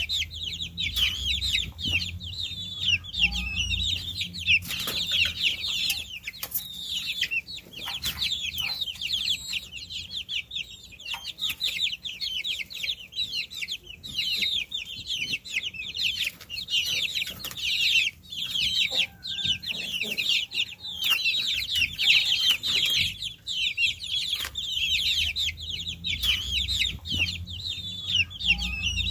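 A brood of baby chicks peeping continuously, many short falling peeps overlapping, with scattered light clicks and a low hum underneath.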